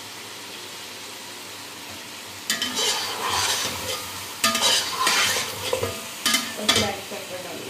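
Chicken pieces frying in a non-stick pot and being stirred with a slotted spatula: a steady low sizzle, then from about two and a half seconds in several loud bursts of sizzling and stirring as the pieces are turned over.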